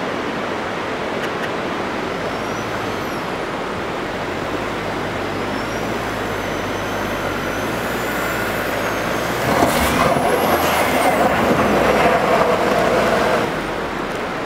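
SUV driving on a gravel road, with steady engine and tyre noise; about ten seconds in the sound grows louder for a few seconds, then drops back.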